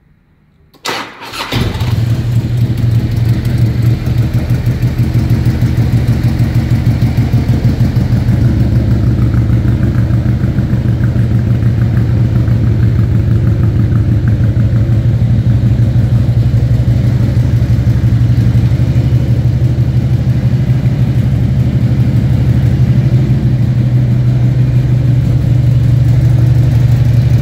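2003 Harley-Davidson trike's air-cooled V-twin on a cold start: a brief crank about a second in, then it catches and settles into a steady idle.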